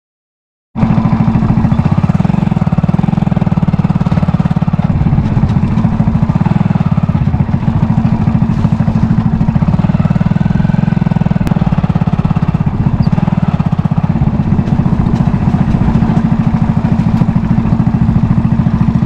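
Motorcycle engine running steadily while riding, with a fast, even pulse; it cuts in abruptly under a second in.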